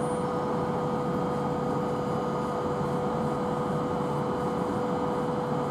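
Steady electrical hum of an electric train standing at the platform, with a constant mid-pitched tone over an even rushing noise.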